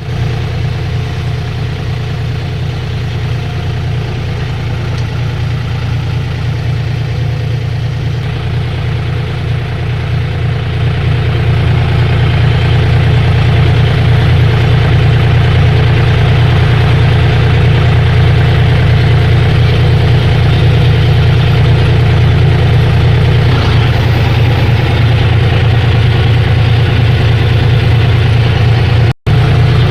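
Tractor diesel engine running steadily, growing louder about a third of the way in. The sound cuts out for an instant near the end.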